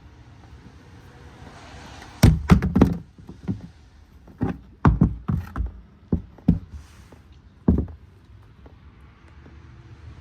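A run of hard knocks and thuds, clustered around two to three seconds in and again around five seconds in, with single knocks after that and a last one near eight seconds.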